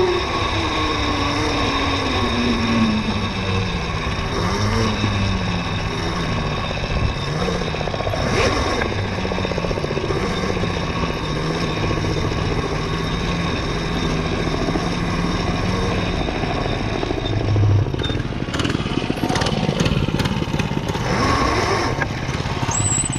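Mini bike running along a dirt trail. Its pitch falls over the first several seconds and then holds steady, over a continuous rush of wind and ground noise, with a few brief knocks and rattles near the end.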